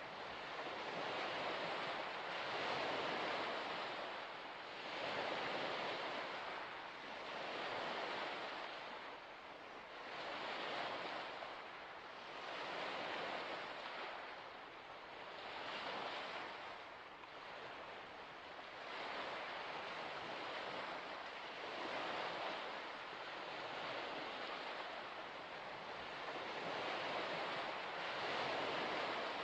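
Small waves washing onto a shore in a steady rhythm, the surf noise swelling and ebbing every two to three seconds.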